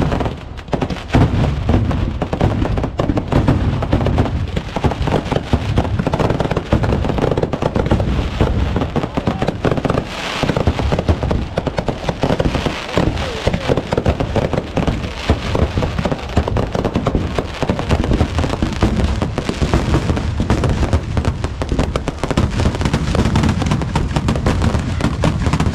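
A loud, dense, unbroken run of rapid bangs and crackles, with no pause, typical of a long string of firecrackers going off.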